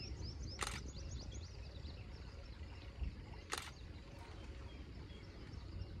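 Wild bird calls: a quick run of short, high chirps in the first second and a half, over a low rumbling outdoor background, with two sharp clicks about three seconds apart.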